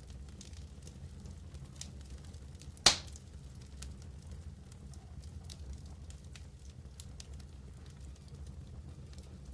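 Wood fire burning in a fireplace: a steady low rumble under scattered small crackles, with one loud sharp pop about three seconds in.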